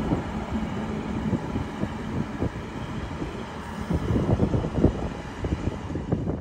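Hunter railcar diesel train rumbling as it pulls away from the platform, with wind gusting on the microphone.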